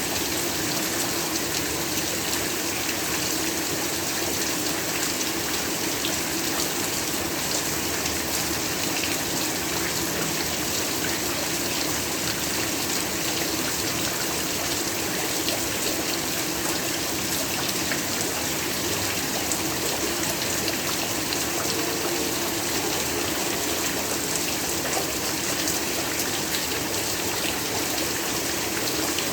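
Heavy, steady rainfall: a dense, even hiss of rain that holds at one level throughout, with no thunder or separate drops standing out.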